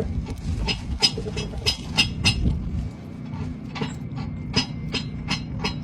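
Heavy construction machinery engine running steadily as a low hum, with a string of short, sharp clicks or clinks over it, about two or three a second.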